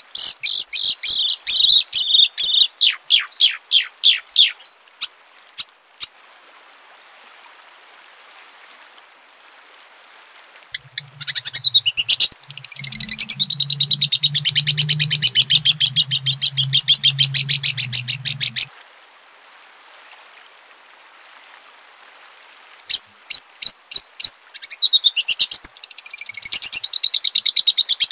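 Songbird singing in three long bursts of rapid, repeated high notes, with pauses of a few seconds between them. A low steady hum runs under the middle burst.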